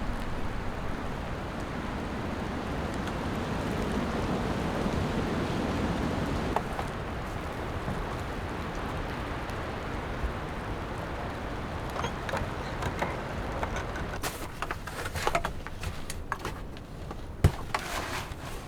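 Strong wind gusting through forest trees, a steady rushing noise that swells and eases. In the second half, scattered sharp clicks and cracks come through over it.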